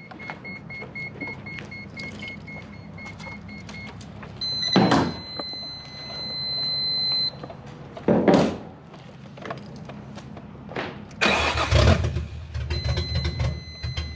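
A car's electronic chime beeping in a quick, even rhythm, then holding a steady tone, with a few loud brief thumps or rustles. Near the end an engine runs with a low, pulsing sound.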